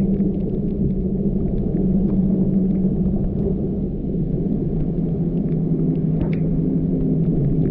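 Car driving steadily: a continuous low engine and road rumble with a steady hum, and scattered faint light ticks over it.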